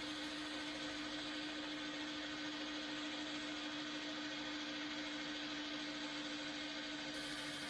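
Electric drill running at a steady speed with a steady hum, a small hole saw boring the latch hole into the edge of a solid pine door.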